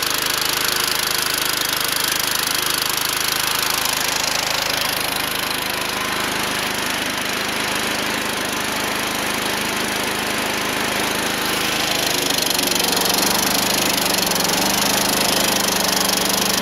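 Small garden tractor engine running steadily after a cold start, its engine speed shifting slightly about three quarters of the way through.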